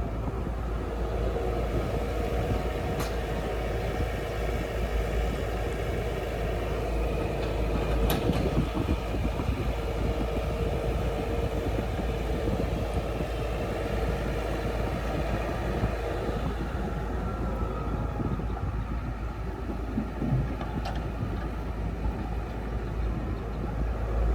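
Diesel engines of an excavator and tractors running steadily, with a deep rumble and a held engine tone, broken by three sharp clicks or knocks.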